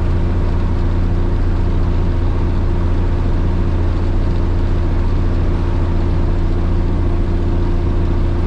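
Cummins 855 Big Cam straight-six diesel of a Kenworth K100 cabover truck running steadily under way, heard from inside the cab as a constant low drone with road noise.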